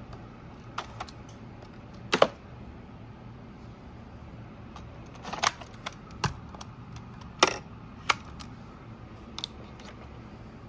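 A run of separate sharp clicks and knocks, like hard objects being handled, loudest about two seconds in and again about seven seconds in, over a low steady hum.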